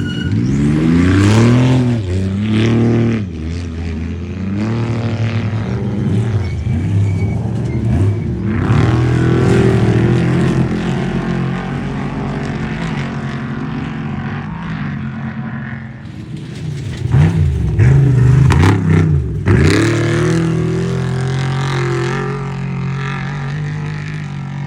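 Off-road race vehicle engines revving hard, the pitch climbing and dropping again and again as the throttle is worked, with a louder run of revving about two-thirds of the way through.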